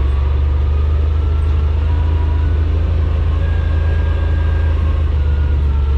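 Side-by-side UTV engine running with a steady, deep drone while holding the machine back on a steep downhill under engine braking.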